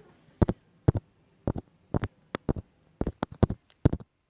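A run of short, sharp clicks and knocks of small hard objects being handled and set back in place, about two or three a second and irregularly spaced.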